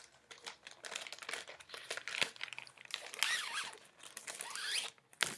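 Plastic packaging crinkling and rustling as it is handled, with a few squeaky rubbing sounds in the second half and a sharp click near the end.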